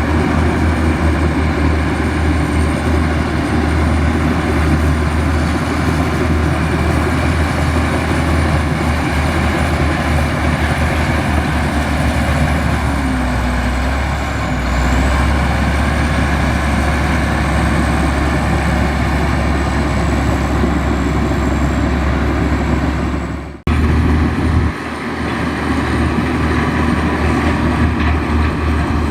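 Heavy diesel earthmoving machinery running steadily with a thin high whine over the engine, broken by a brief dropout about 23 seconds in.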